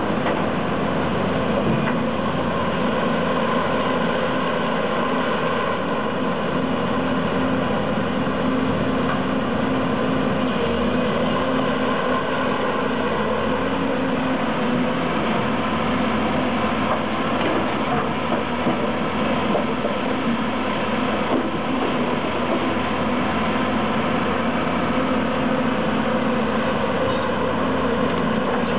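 Heavy diesel engine running steadily with a constant hum, without revving.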